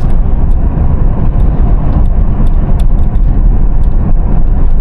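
Road noise of a car being driven, heard from inside: a steady low rumble of tyres and engine, with a few faint ticks.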